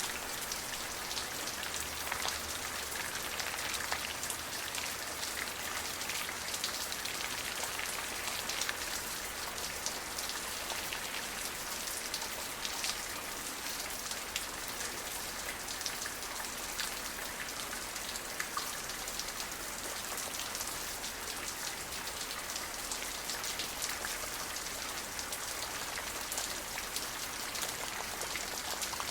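Steady rain falling, a dense patter of many small drops striking a surface.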